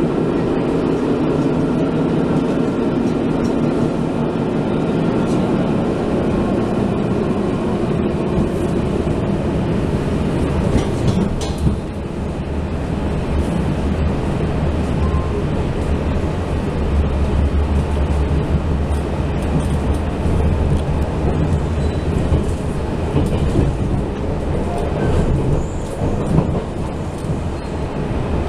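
Inside a Taiwan Railway Fu-Hsing express passenger car running at speed: the steady rumble of wheels on rail, with a few faint clicks of rail joints. About twelve seconds in the rumble turns deeper as the train comes off a bridge onto plain track.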